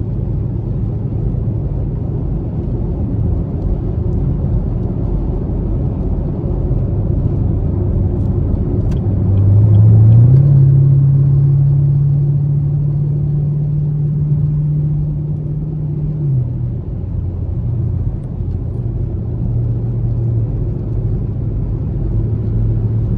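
Chevrolet Camaro SS's 6.2-litre V8, on its stock exhaust, running with a steady low drone. About ten seconds in the revs climb quickly and hold higher for about six seconds, then drop back to the earlier steady note.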